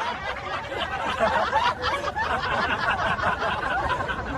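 Several people chuckling and snickering together, mixed with indistinct chatter.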